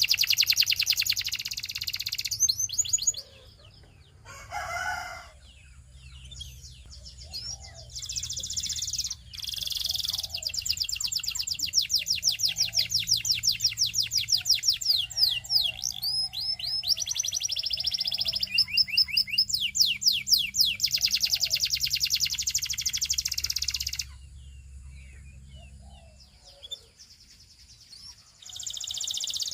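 Belgian singing canary singing long, rapid trills of repeated high notes in several phrases, broken by short pauses and a longer pause of a few seconds near the end.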